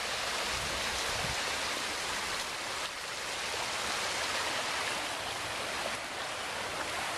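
Rain-swollen creek running fast, a steady rush of floodwater.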